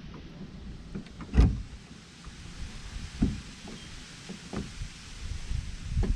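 Scattered knocks and clunks of tools and parts being handled during work on a car's rear wheel hub, the loudest about a second and a half in, over a low background rumble.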